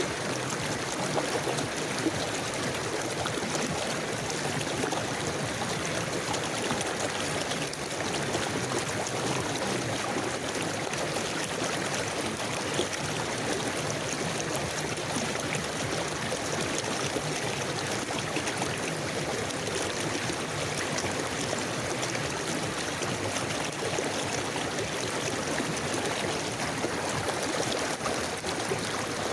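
River water flowing steadily over stones, a constant even rush and gurgle.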